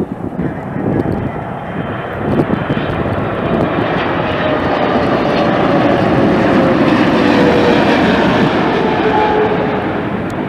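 Jet airliner passing close by: its engine noise swells to a peak about seven or eight seconds in and then begins to fade, with a faint whine sliding down in pitch as it goes past.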